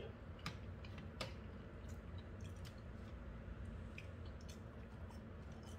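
A person chewing thick-cut french fries with the mouth closed, with a few short sharp clicks scattered through.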